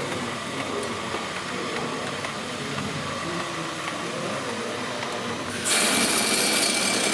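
A low hum of hall noise, then about five and a half seconds in a small motor starts abruptly and runs with a loud, steady, high-pitched buzz.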